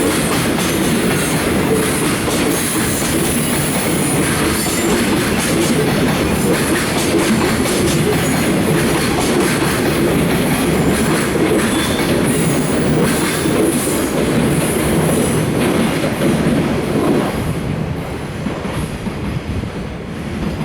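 Koki container flatcars of a departing freight train rolling past, their steel wheels rumbling and clacking on the rails with faint wheel squeal. The noise eases near the end as the last wagons go by.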